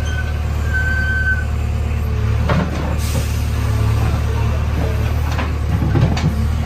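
JCB 3DX backhoe loader's diesel engine running steadily under load, with a few sharp clanks from the working digger about two and a half, five and a half and six seconds in.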